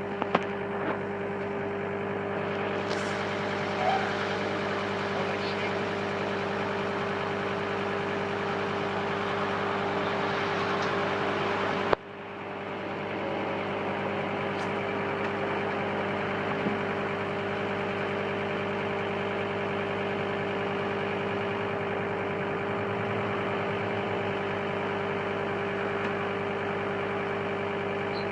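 Engine of the bucket lift vehicle idling with a steady hum, which briefly dips about twelve seconds in.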